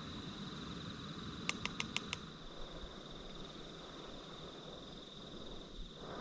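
A steady, high-pitched insect trill runs over a faint hiss, with five quick sharp clicks in a row about a second and a half in, from camp cooking gear being handled.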